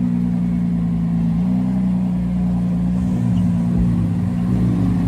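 A car engine running steadily at low revs close by, its pitch shifting slightly a couple of times.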